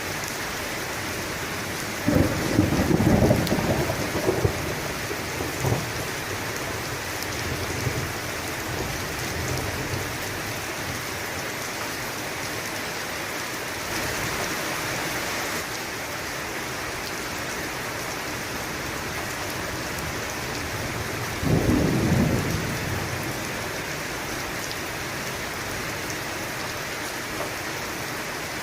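Steady rain falling, with thunder rumbling twice: a long crack and rumble about two seconds in, and a shorter one about three-quarters of the way through.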